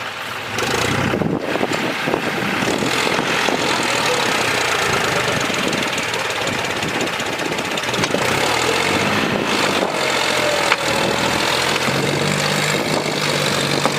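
Tractor's diesel engine running loud and steady, stepping up about half a second in.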